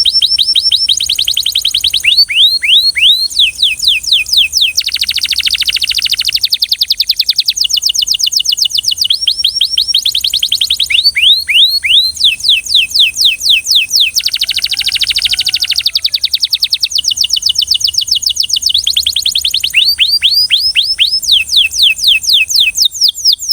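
Belgian canary singing: fast rolling phrases, each a rapid series of repeated high notes swooping downward, alternating with denser buzzing trills, one phrase running straight into the next.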